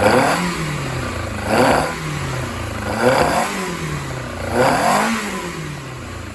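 Triumph Spitfire four-cylinder race engine, freshly refurbished and on its first run after fitting, being blipped on the throttle four times, each rev rising and dropping back to idle about every second and a half, then settling near the end.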